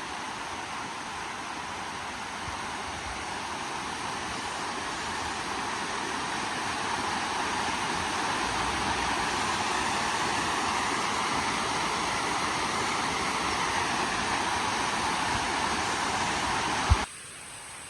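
Waterfall: a steady rush of falling water that grows a little louder over the first half. Near the end there is a short thump, and the rush cuts off abruptly to a quieter hiss.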